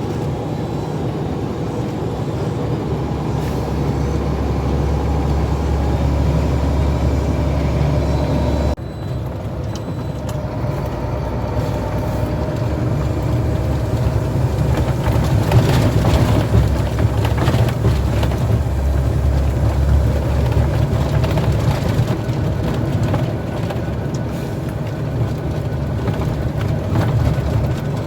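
Heavy truck on the move: steady engine running and road rumble. The sound changes abruptly about nine seconds in.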